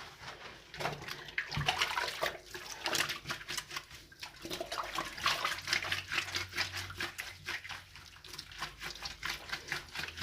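Clothes being soaked and worked by hand in water: irregular splashing and sloshing of wet laundry. A low hum comes in about halfway through.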